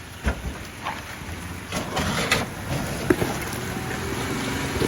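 Jeep engine running at low speed as it crawls an off-road obstacle, with several sharp knocks in the first three seconds, over the steady hiss of falling rain.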